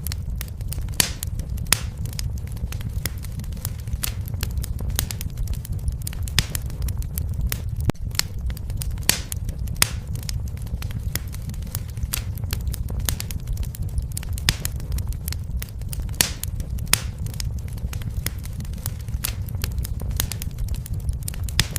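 Fireplace fire crackling, with many sharp irregular pops over a steady low rumble.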